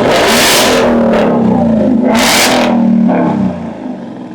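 Mustang GT's 5.0 V8 revved hard through its exhaust, starting abruptly and holding high for about three seconds with two sharper surges. It drops back a little after three seconds in.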